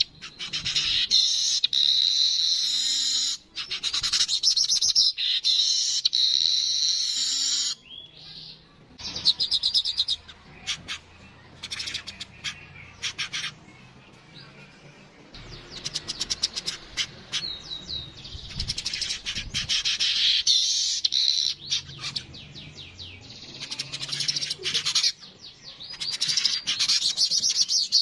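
Yellow-headed weaver (manyar kepala kuning) singing: long buzzy, chattering phrases mixed with rapid dry ticking runs. The song breaks off briefly about eight seconds in, then goes quieter with scattered ticks before the full chatter returns in the second half.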